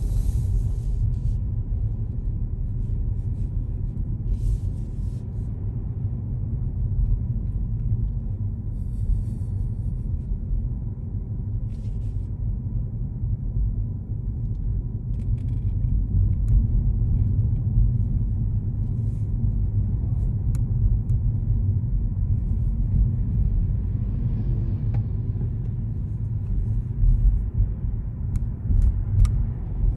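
Steady low rumble of a car driving, with a few faint short ticks and clicks scattered through.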